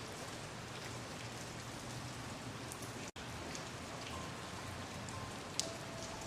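Steady rain falling, a continuous patter with scattered individual drop ticks and one sharper drip near the end. The sound cuts out for an instant about three seconds in, and faint held musical notes creep in during the second half.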